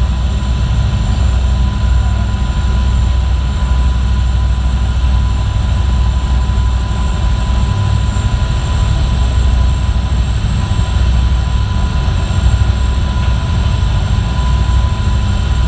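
Boat engine running steadily: a constant low drone with a thin, steady high whine above it.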